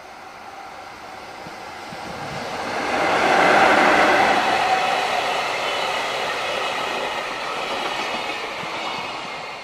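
JR Freight EF66 electric locomotive hauling a freight train of Koki container flatcars passes close by: the sound swells to its loudest about four seconds in as the locomotive goes past, then the wagons roll by steadily, easing off slightly near the end.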